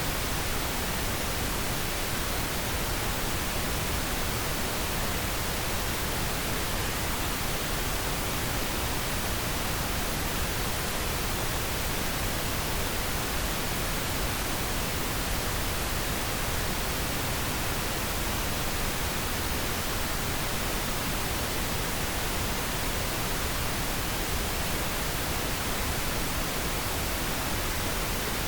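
Steady pink noise: an even, unchanging hiss spread across the whole range of pitch, with no events.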